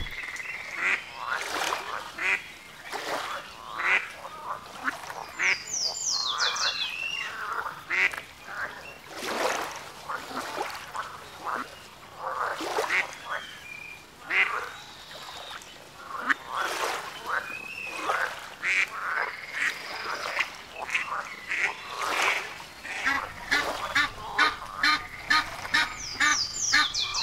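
Birds calling: many short calls repeated irregularly, with a quick run of high chirps about six seconds in and again near the end.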